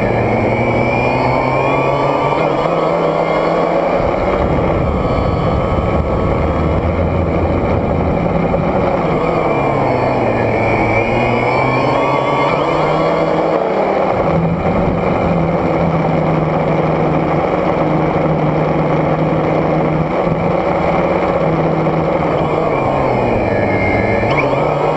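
DJI Phantom quadcopter's propellers and motors humming steadily, the pitch sliding up and down every few seconds as the motors speed up and slow down, with a steady high whine above.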